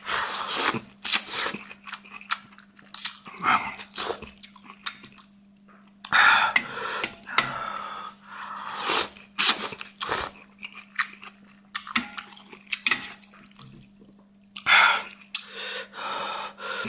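A person chewing spicy food close to the microphone: wet, crunchy mouth noises in irregular bursts with short pauses, over a steady low hum.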